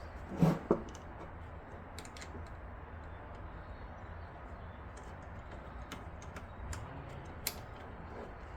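Light clicks and taps of PC hardware being handled, with two knocks about half a second in and a sharp click near the end, as a graphics card's rear support piece is fitted into a slot of the case.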